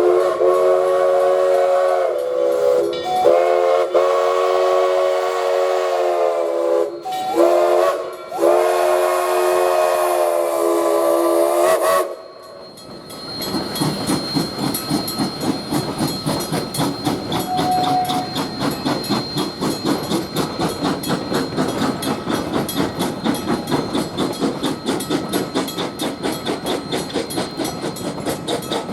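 A locomotive sounds its multi-note whistle for a railroad crossing in four blasts, long, long, short, long, the standard grade-crossing warning. The whistle then stops, and the crossing's electronic bell rings in a fast, steady rhythm as the train moves over the crossing.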